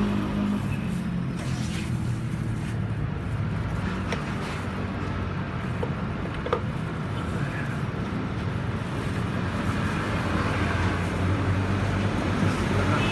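Steady low rumble of motor traffic or a running engine, with a few light clicks of tools on metal.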